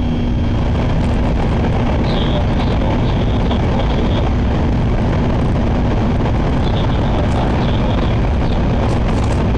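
Steady running noise inside a Shinkansen car travelling at speed: a loud, even rumble with a constant low hum.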